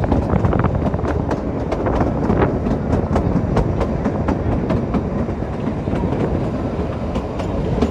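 Narrow-gauge toy train running along the Kalka–Shimla line, heard from aboard a coach: a steady rumble of wheels on rails with rapid, irregular clickety-clack from the rail joints.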